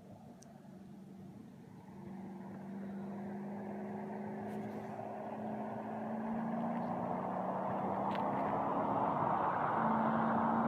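Audi S6 V8 engine running with a steady low note. It grows gradually louder throughout, and a rushing noise builds in the second half.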